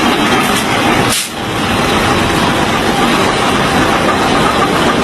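Train running, a loud steady rumble and roar with a brief dip about a second in.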